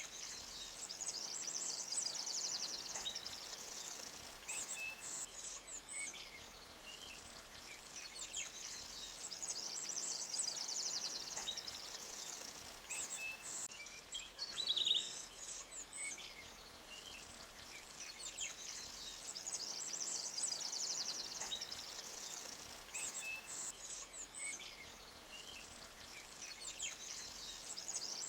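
Forest ambience: scattered short bird chirps and a high, fast trill that swells and fades roughly every nine to ten seconds, over a faint steady hiss.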